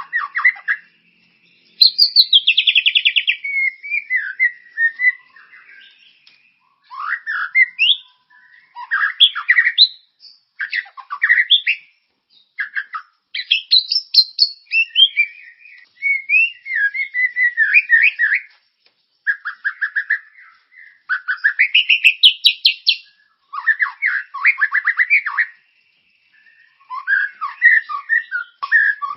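A birdsong training recording (masteran) for white-rumped shamas: a run of varied songbird phrases, rapid trills and chirps of a second or two each, repeated with short pauses between them.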